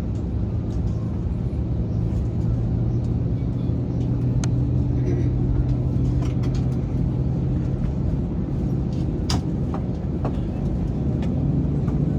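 Steady low drone of an Airbus A321 heard from inside the passenger cabin on the ground before takeoff: engines at idle and cabin air, with a constant low hum. A few faint clicks sound over it, one clearer about nine seconds in.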